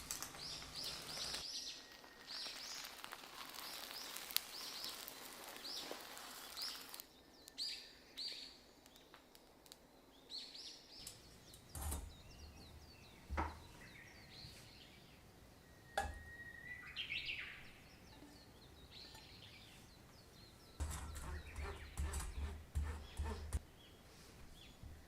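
Faint bird chirping: many short, high calls falling in pitch, repeated in quick runs. A few sharp taps around the middle.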